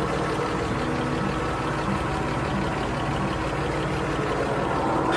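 1953 Chevrolet Bel Air's original 235 straight-six idling steadily.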